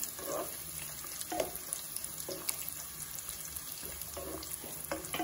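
Sliced onions and garlic frying in hot oil in a pot, a steady sizzle, with a wooden spatula stirring and scraping against the pan a few times.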